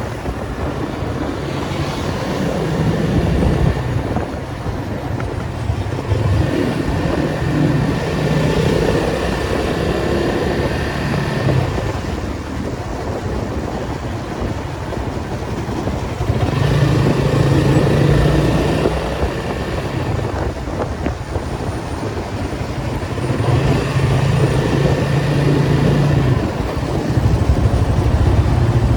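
Datsun 280Z's straight-six engine driving in stop-and-go traffic, its note swelling and dropping back several times as the car pulls away and eases off.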